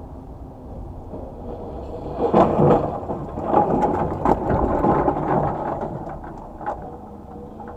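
A vehicle collision picked up by a dashcam microphone: about two seconds in, a series of bangs and crunching impacts lasting some three seconds, loudest at the start, then fading back to road noise.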